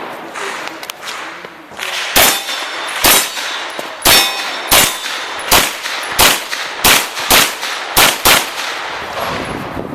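Pistol shots fired in a USPSA action pistol stage: about ten sharp reports with short ringing tails, starting about two seconds in and coming roughly every half second to a second, some in quick pairs near the end.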